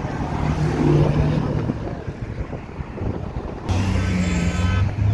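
Car engines running as cars drive slowly past, low and steady. The sound changes abruptly about three and a half seconds in to a different, steadier engine hum.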